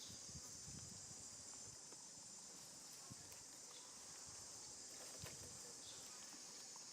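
Faint, steady high-pitched insect chorus, with a couple of faint soft knocks or rustles partway through.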